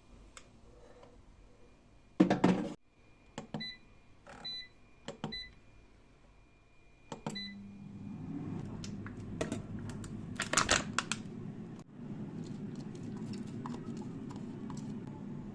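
Xiaomi air fryer being set going: a loud clatter about two seconds in, then a few short beeps from its control panel as buttons are pressed. After a click its fan starts running with a steady whooshing hum, broken by another clatter.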